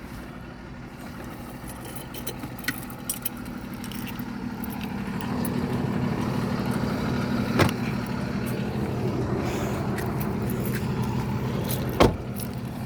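A vehicle engine running with a steady low hum that grows louder about five seconds in, with two sharp knocks partway through.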